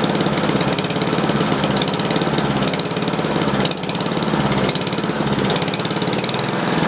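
Honda HRS21 push mower's small single-cylinder engine running steadily, its firing pulses even apart from a brief dip about halfway through. It is running with the float needle and main jet out of the carburettor and is starting to run out of gas.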